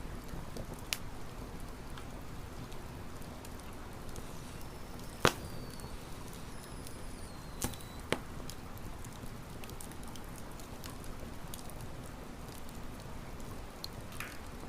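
Wood campfire crackling: a steady low rush with scattered sharp pops, the loudest about five seconds in and two more near eight seconds. A faint, thin, high whistle glides down between about four and eight seconds in.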